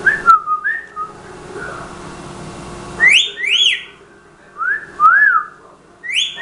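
Pet talking bird whistling short rising-and-falling notes in pairs. There are a couple of quick ones at the start, a loud high pair about three seconds in, a lower, softer pair a second and a half later, and another high one at the end.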